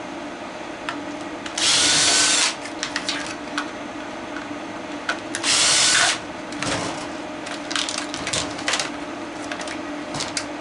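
Power drill run in two short bursts, each about a second long, backing screws out of a plastic housing, with clicks and clatter of handling between the bursts.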